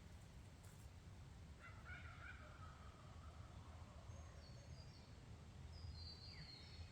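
Faint birds calling: a wavering call about one and a half seconds in, then short high chirps later on, over a low steady rumble.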